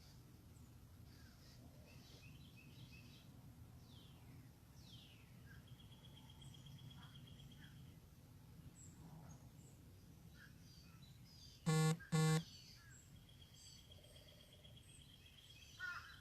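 Wild birds singing: repeated trills and falling whistles over a steady low background rumble. About twelve seconds in, two short loud honk-like notes in quick succession stand out above the rest.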